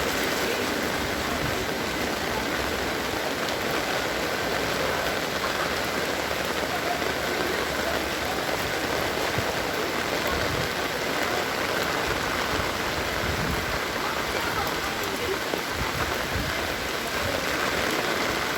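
Heavy rain falling steadily and hitting hard surfaces, a dense even hiss.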